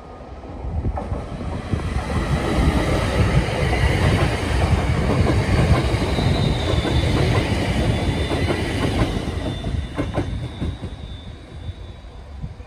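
A train passing close by, its wheels rumbling on the rails, building up about a second in. Late in the pass the wheels click over rail joints several times before the sound eases near the end.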